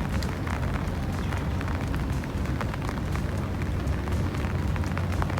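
Rain falling steadily, with many small sharp drop hits close to the microphone over a low rumble.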